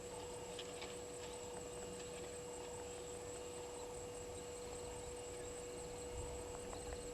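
Faint waterhole ambience: a steady low hum and a steady high whine, with a few short faint chirps.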